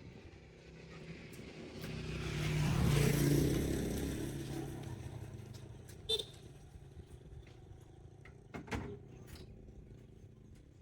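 A motor vehicle's engine passing by, growing louder to a peak about three seconds in and then fading away, followed by a few sharp clicks or knocks.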